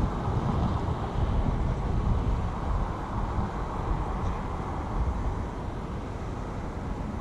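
Motorcycle on the move: an even rush of engine, road and wind noise, strongest in the low end with uneven surges, heard from a chest-mounted camera on the rider.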